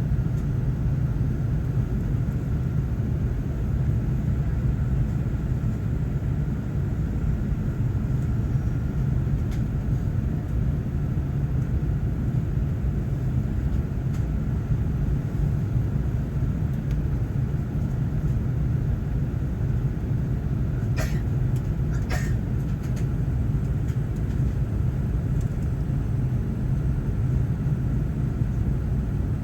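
Airbus A380-861 cabin noise: a steady low rumble and hum from the Engine Alliance GP7200 engines and airflow, heard from inside the passenger cabin. Two brief clicks come about two-thirds of the way through.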